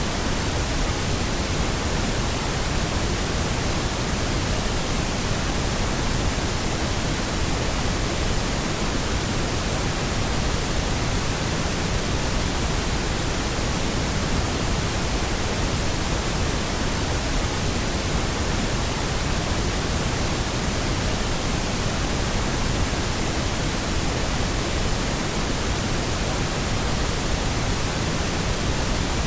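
Steady, unchanging pink noise: an even, featureless hiss across all pitches, fuller in the low end than white noise.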